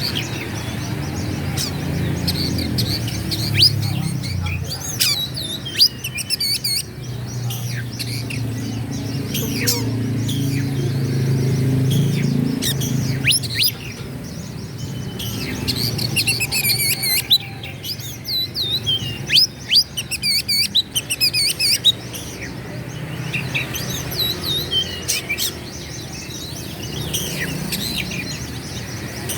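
Oriental magpie-robin (kacer) singing, with fast varied whistles, sharp chattering notes and quick rising and falling phrases in repeated bursts. A low steady hum runs underneath.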